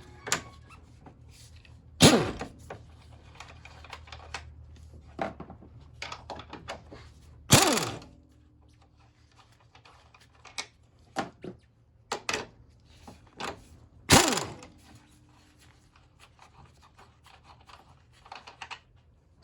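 Tool work on a 14mm suspension bolt: three loud, short metallic strikes about two, seven and a half and fourteen seconds in, each ringing briefly with a falling pitch. Lighter clicks and taps come in between.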